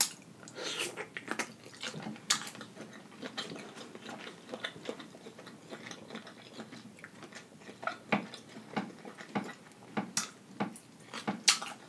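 Close-up mouth sounds of a person biting and chewing butter-dipped shrimp: irregular wet smacks and clicks.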